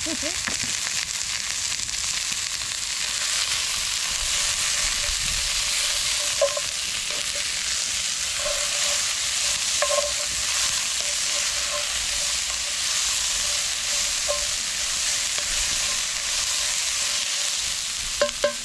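Chopped onion and garlic sizzling steadily in oil in a Dutch oven, with a few short clinks of a utensil against the pot.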